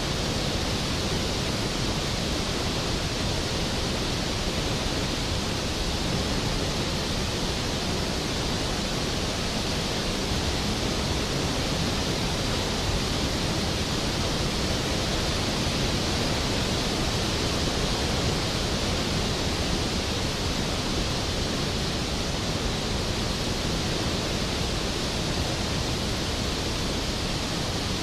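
Skógafoss waterfall: a large waterfall's steady, powerful roar of falling water, unchanging throughout.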